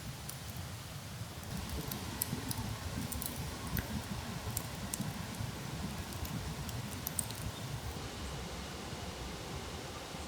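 Low, fluctuating rumble with scattered faint crackles and rustles, the crackles stopping about seven or eight seconds in.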